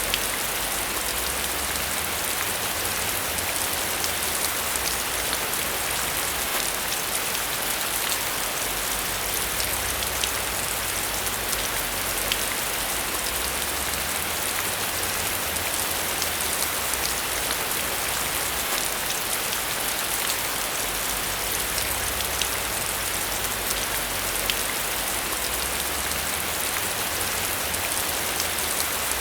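Steady rain falling, a dense hiss of drops with many small individual drop ticks, over a faint low rumble that swells and fades.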